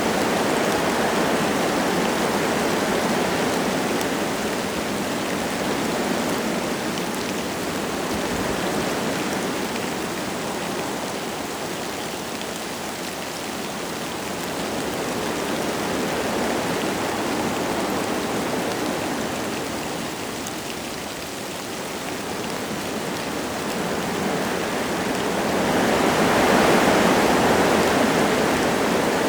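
Wind gusting through forest trees with light rain falling, a steady rushing noise that swells and eases every several seconds. The strongest gust comes near the end.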